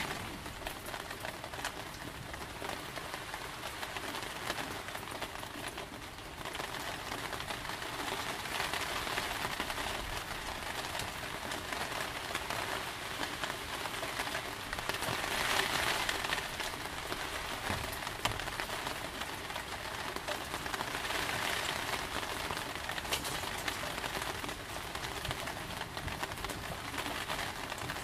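Steady heavy rain falling, swelling louder a couple of times, most strongly about halfway through.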